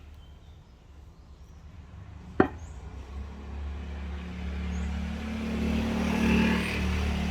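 A single sharp knock, then the low hum of a passing motor vehicle's engine, swelling steadily louder toward the end.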